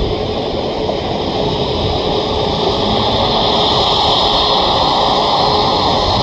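Boeing 737 jet engines running: a steady, loud rush with a constant hum, slowly swelling.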